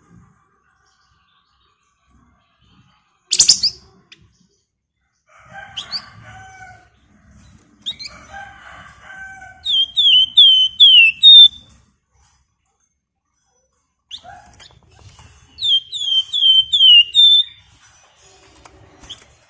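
A caged flamboyan (wergan Jawa) songbird singing in bursts: scattered chatter and two runs of about five quick downward-slurred whistles. A single brief sharp sound comes about three and a half seconds in.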